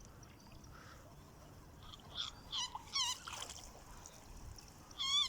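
Faint bird calls: a few short warbling calls, about two, three and five seconds in, over quiet marsh background noise.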